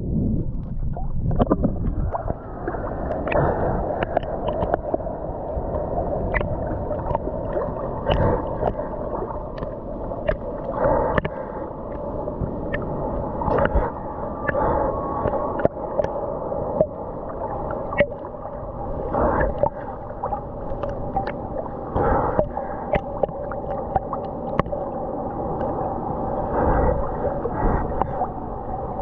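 Muffled ocean water sloshing and gurgling around a swimmer, with many short clicks and splashes and a faint steady hum underneath.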